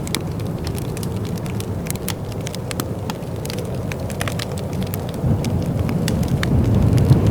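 Wood fire crackling in a fireplace: irregular sharp pops and snaps over a low, steady rumble that swells louder about five seconds in.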